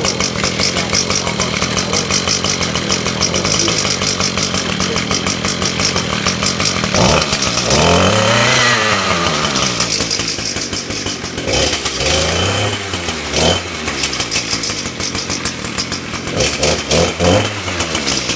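Echo PE230 edger's small two-stroke engine running just after a cold start on a freshly fitted carburetor, idling and revved up and back down three times: a long rev about seven seconds in, shorter ones around twelve seconds and near the end.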